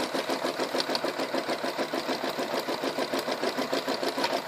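Janome Memory Craft 9000 embroidery machine stitching out a design on towel fabric, its needle running in a rapid, even rhythm of many strokes a second.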